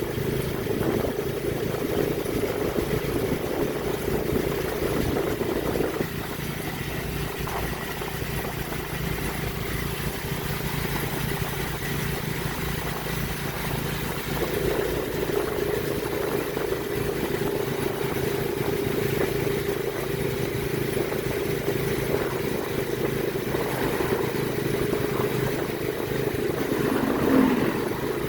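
Motorcycle engine of a three-wheeled motorcycle taxi running steadily on the move, with road noise. The engine is quieter for a stretch in the middle and picks up again about halfway through, and a short louder tone sounds near the end.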